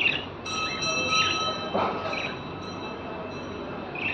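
Pet lovebirds giving short sharp chirps, one right at the start and one at the end, with a few softer chirps between. Under them, a steady tone of several pitches holds for about two seconds and then stops.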